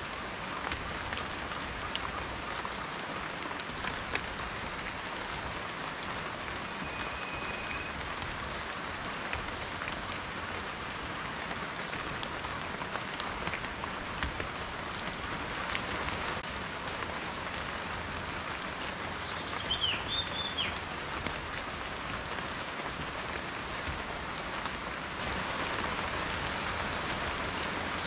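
Steady rain falling, with separate drops striking close by. A short chirp, like a bird's call, comes about two-thirds of the way through.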